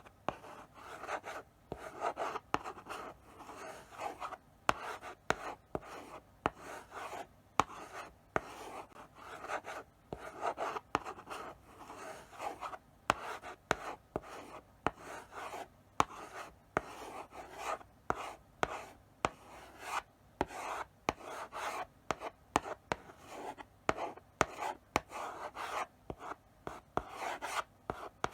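Chalk writing slowly on a blackboard: a run of scratchy strokes with short pauses between them, and sharp taps as the chalk meets the board at the start of strokes.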